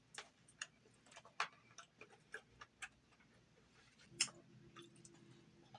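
Close-up eating sounds: wet mouth clicks and smacks of chewing at an irregular pace, with one louder click about four seconds in.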